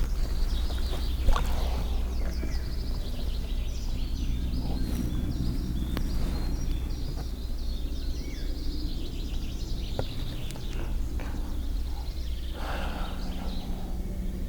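Many small birds chirping over a steady low rumble, with a few faint clicks.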